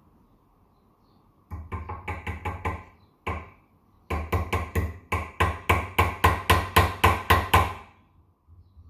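Repeated sharp metal taps from a screwdriver used as a punch to knock a ball bearing along the fan motor shaft of a split AC indoor unit. A short burst of taps, a single tap, then a longer run of quicker, harder taps at about four a second.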